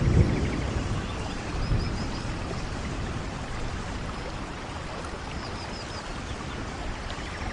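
Steady rain falling, with low rumbles near the start and again about two seconds in. A bird gives a quick run of short high chirps twice.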